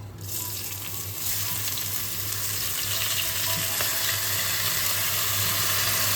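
Drained gobindobhog rice sizzling as it fries in hot ghee and oil with whole spices. The sizzle starts just after the start and grows louder about a second in, then holds steady.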